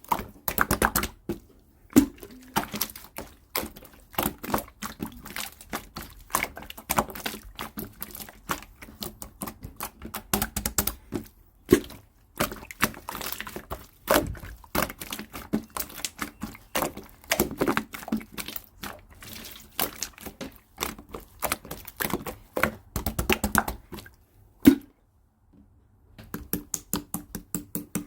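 Clear slime being worked by hand, making quick sticky clicks and pops in dense irregular runs, with one short pause near the end.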